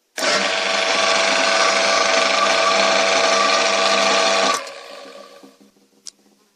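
AD-180 washing-machine motor switched on, running with a loud, steady hum and rattle for about four seconds, then cut off and spinning down over a second or so. By the owner's account this motor runs incorrectly and overheats until its thermal protection trips. A single click follows near the end.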